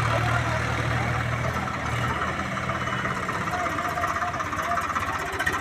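Swaraj tractor's diesel engine running steadily, its low hum easing after about three seconds.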